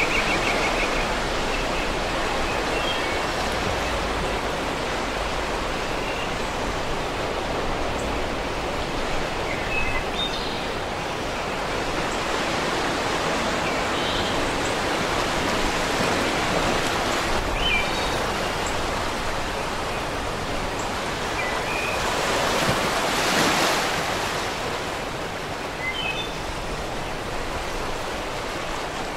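Steady hiss of recording noise from an old videotape soundtrack, with a few faint short squeaks and a brief swell in the hiss about three-quarters of the way through.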